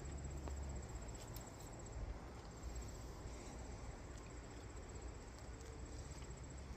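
A steady, high insect trill, typical of crickets, that drops out briefly about two and a half seconds in, over a faint low rumble and a few soft clicks.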